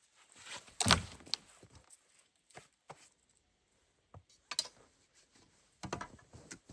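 A few separate thuds and crunches, the loudest about a second in and a short cluster near the end.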